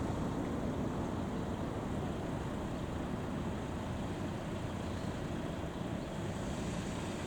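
Fire truck engine running steadily, a dense low rumble mixed with road or wind noise.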